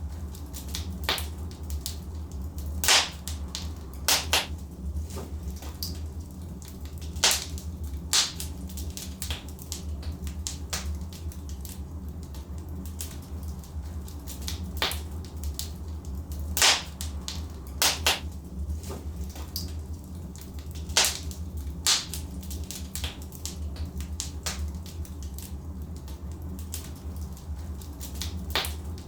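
Wood logs burning in a fireplace: irregular sharp crackles and pops over a steady low rumble.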